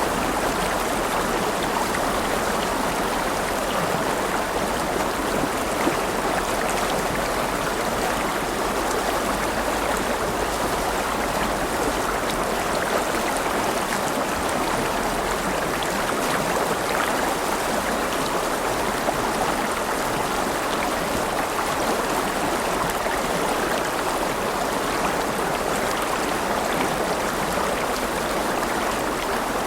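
A river flowing steadily over stones, a continuous rushing babble of water.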